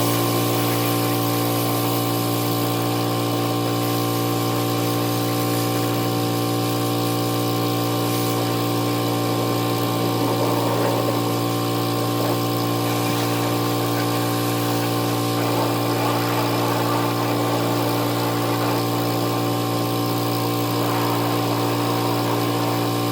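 Gas-engine pressure washer running steadily at a constant speed.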